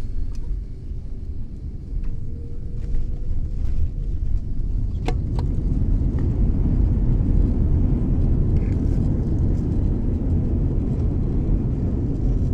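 Airbus A330 cabin rumble during the landing, growing louder from about two seconds in and then holding steady, with a couple of sharp rattles near the middle.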